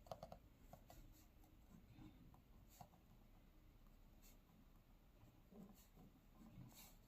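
Faint scratching and tapping of a pen writing on paper.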